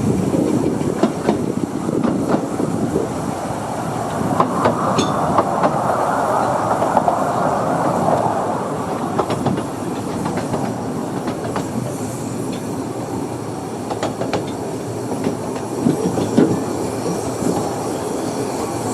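15-inch gauge miniature railway train running on the track as it pulls into the station: steady rolling noise with wheels clicking over rail joints and brief wheel squeal, slightly quieter in the second half.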